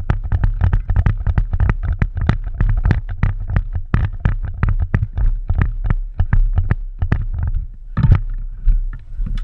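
Rapid, irregular knocks and rustles of a player on the move, roughly four or five a second, over a steady low rumble on the microphone. There is a louder knock about eight seconds in, after which the sound eases off.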